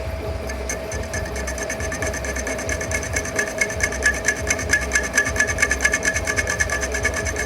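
Metal lathe running with a tool rubbing on the spinning workpiece: a steady motor hum under a fast, even scraping rhythm that starts about a second in.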